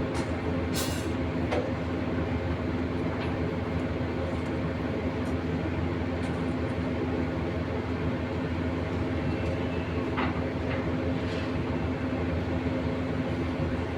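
A machine engine running steadily with a constant low drone. A few short sharp knocks or clanks come through it, about a second in and again around ten to eleven seconds in.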